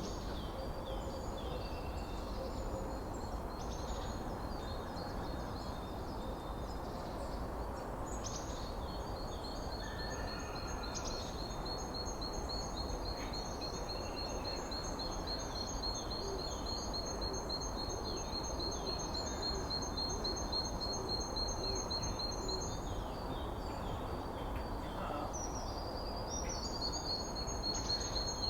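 Forest birdsong: one bird sings a long, even, high trill of rapid repeated notes lasting about fifteen seconds, starts it again near the end, while other birds give short chirps, over a steady background hiss.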